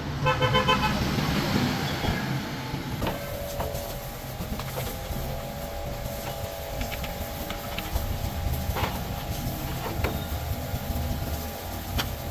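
A machine hum sets in about three seconds in and then runs steadily over a low rumble, with scattered sharp metallic clicks.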